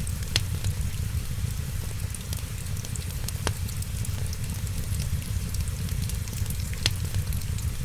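Wood fire crackling with many small pops and three sharper pops, over a steady low rumble, with rain falling.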